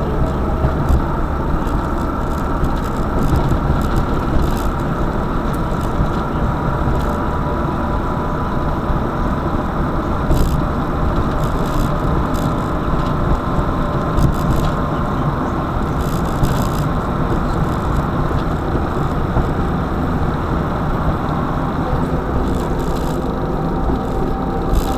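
Car driving steadily: continuous low engine and road rumble with a faint whine that slowly shifts in pitch, and scattered light ticks.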